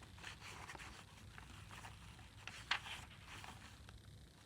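Faint rustling and soft ticks of paper journal pages and card being handled and flipped, with one sharper click a little past halfway.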